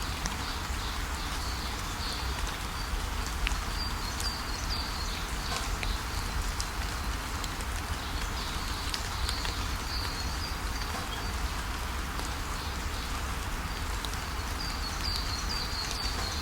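Steady rain falling, with short bursts of high bird chirps three times: about four seconds in, around ten seconds, and near the end.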